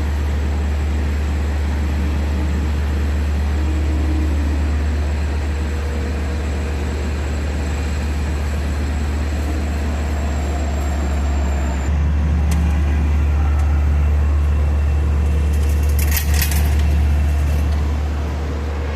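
Steady low rumble and running noise of a Long Island Rail Road commuter train in motion, heard from inside the car. The hum shifts about two-thirds of the way through, and a brief burst of sharp metallic clicks comes a little later.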